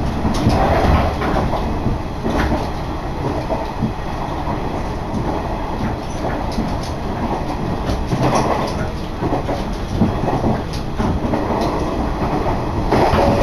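Inside a diesel railcar running along the line: a steady rumble of wheels on rails with a few clicks as the wheels cross rail joints.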